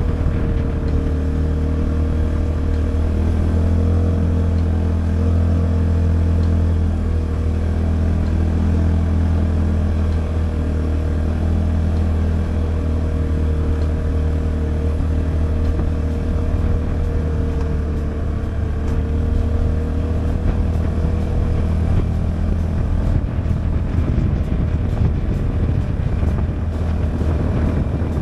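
Polaris Ranger 570 side-by-side's engine running steadily under way, a constant low drone with little change in pitch. A rougher crackling noise joins in the last few seconds.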